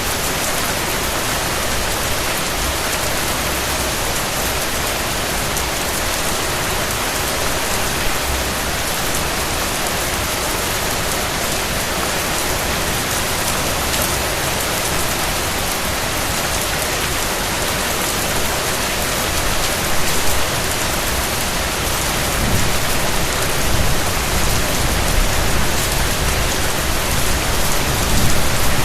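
Steady rain falling on a surface: a dense, even hiss of many drops. In the last third a low, uneven rumble swells underneath.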